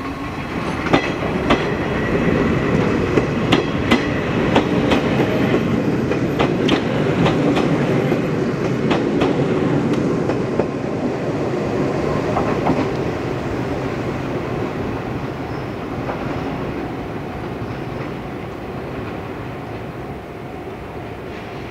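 Izuhakone Railway electric train running by, its wheels clicking over rail joints, with a rumble that grows louder over the first several seconds and then slowly fades away.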